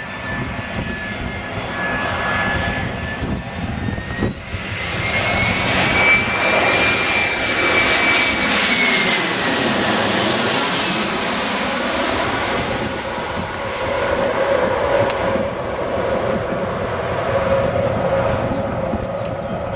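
Airbus A319 airliner's twin jet engines passing low on its landing approach: a steady whine that rises slightly in pitch and then drops as the jet goes by, loudest in the middle. A lower steady rumble follows as it moves away.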